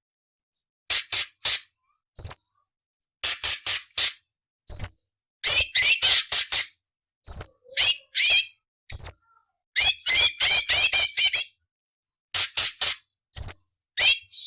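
Cucak cungkok leafbird singing a harsh, rasping song: bursts of rapid high chips mixed with short rising whistles, each phrase about half a second to a second and a half long, with brief pauses between them.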